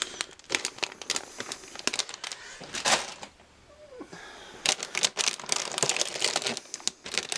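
Plastic bags holding model kit parts runners crinkling and rustling as they are handled, with many small clicks and crackles. The noise eases off briefly in the middle, then picks up again.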